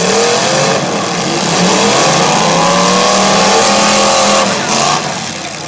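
Demolition derby cars' engines revving hard. One engine climbs slowly in pitch and holds high, then drops off about five seconds in.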